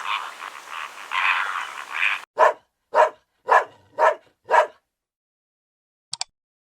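A dense chorus of animal calls cuts off abruptly about two seconds in, followed by five short barking calls about half a second apart, and a brief double yip near the end.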